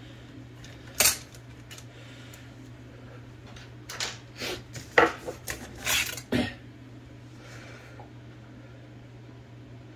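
Small metal typewriter parts clinking and clattering as they are handled: one sharp clink about a second in, then a run of clicks and clanks a few seconds later, over a steady low hum.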